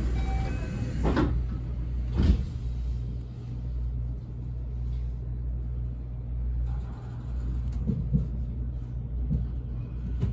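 Steady low hum and rumble of a train at a station, with two sharp knocks about one and two seconds in.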